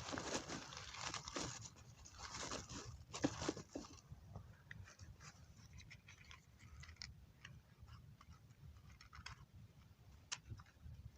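Small campfire of twigs catching: dense rustling and crunching for the first few seconds, then scattered faint sharp crackles.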